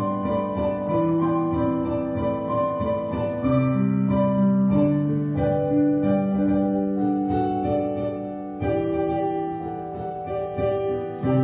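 Slow instrumental keyboard music: held piano-like chords that change every second or two, with fresh chords struck about three and a half seconds in and again near the end.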